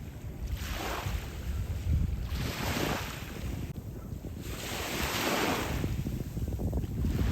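Small waves washing onto the beach in repeated surges, about three swells, with wind buffeting the microphone as a steady low rumble underneath.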